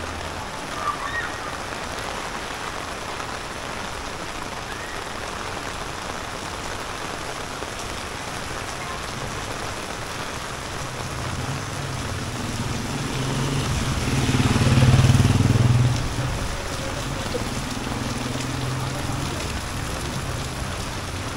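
Steady rain falling. A motor vehicle's engine grows louder from about halfway through, passes closest about 15 seconds in, then fades back under the rain.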